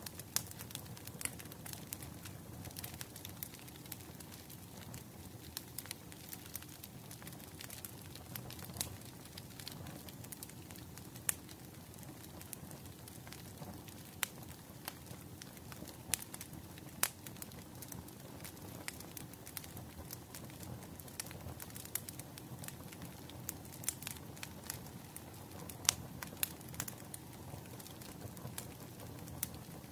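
Wood fire crackling: a steady low rush of flames with irregular sharp pops and snaps, a few louder than the rest.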